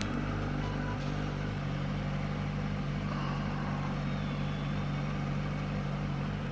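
Kawasaki Ninja ZX-6R 636's inline-four engine running at a steady cruise, its pitch holding even, under a rush of wind noise.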